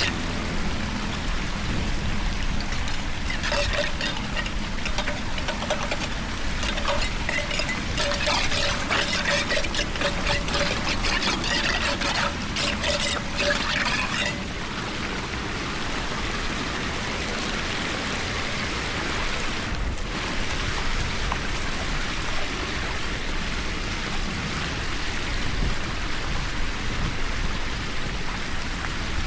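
Water pouring and trickling steadily, busier and splashier through the first half, then settling into a smoother even rush.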